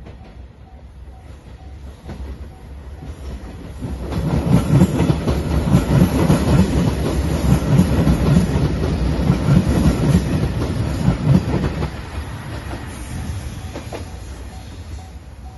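JR Shikoku 2700 series diesel multiple unit approaching and passing close by at speed. Its engines rise and its wheels clack rhythmically over the rail joints for about eight seconds, then it fades as it runs away. A level crossing warning bell rings in an even, steady beat as the train draws away.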